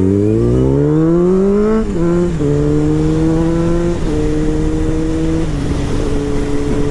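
Motorcycle engine, a 2006 Honda CBR600 F4i inline-four, accelerating: revs climb for about two seconds, then drop sharply at a gear change and hold nearly steady, stepping down slightly twice more.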